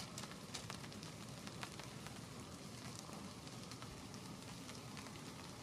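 Light drizzle pattering: faint scattered ticks of drops over a soft, steady hiss.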